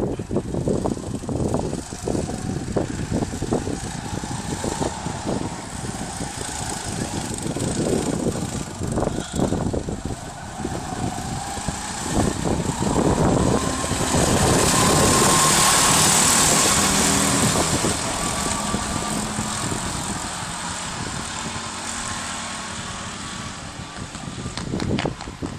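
Go-kart engine running at race speed, its pitch rising as it accelerates, growing loud as a kart passes close about halfway through, then fading away.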